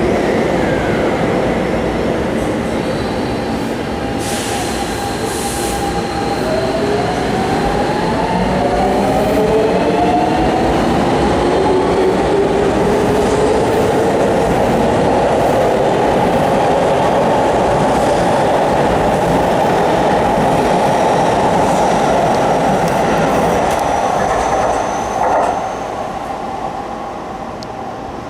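Electric commuter train running on the rails with steady wheel and rail noise. Its traction motors whine in several tones that rise in pitch from about six to twelve seconds in as it gathers speed. The sound dies down after about twenty-five seconds.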